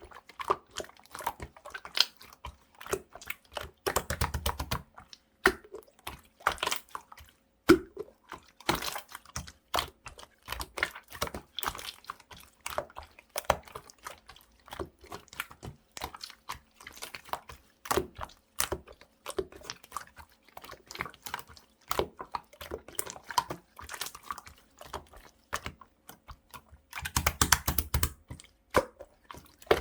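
Clear slime being squeezed and poked by hand: a dense run of small sticky clicks and pops, with two louder squelching stretches, about four seconds in and near the end.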